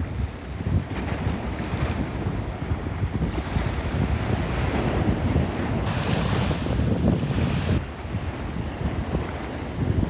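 Sea waves washing, with wind rumbling on the microphone; a louder, hissing wash of water comes about six seconds in and lasts nearly two seconds.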